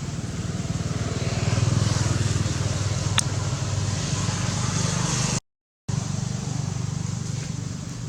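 A motor running steadily with a low even hum, with one short sharp click about three seconds in and a brief cut to silence about five and a half seconds in.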